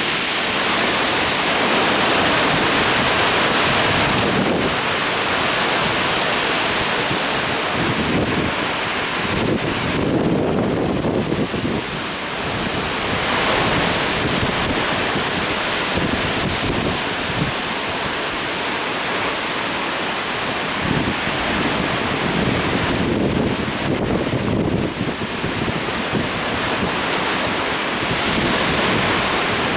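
Heavy typhoon swell breaking as surf: a continuous wash of noise that swells and eases with each set of waves, with wind on the microphone.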